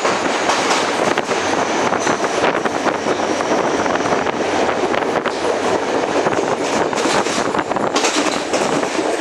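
Train running along the track: a steady loud rush of wheel-on-rail noise, with rapid irregular clicks and rattles.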